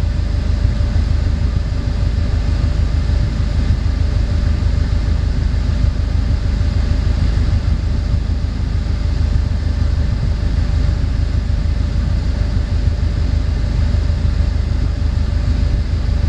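2002 Subaru WRX's turbocharged flat-four engine idling, heard from inside the cabin: a steady low rumble with a thin steady hum over it.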